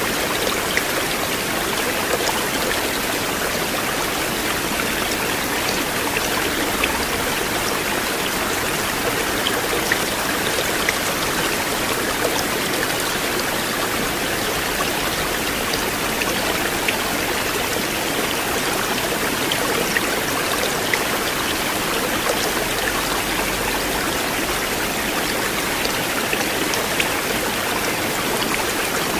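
River water running steadily, a continuous rushing wash with small scattered splashes and drips through it.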